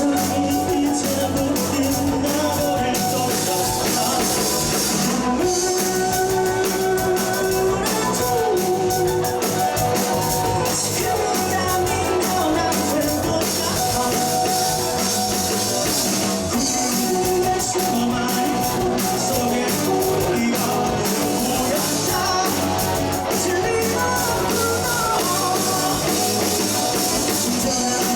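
Live rock band playing with singing: guitars, bass and a drum kit with steady cymbals.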